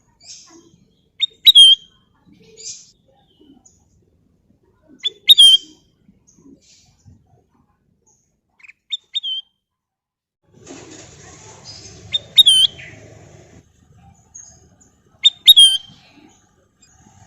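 Kutilang emas (a bulbul) calling: short, loud whistled phrases of a few sharp notes, repeated about every three seconds, with one softer phrase in between. A rustling noise runs for about three seconds midway.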